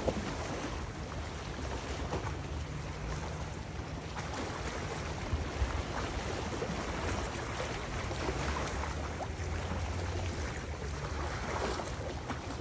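Wind buffeting the microphone, a steady low rumble with a few small knocks, over a broad rushing noise.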